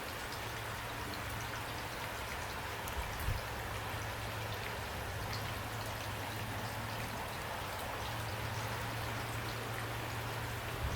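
Steady rain falling, with scattered individual drops ticking over an even hiss and a low steady hum beneath; a brief low thump about three seconds in.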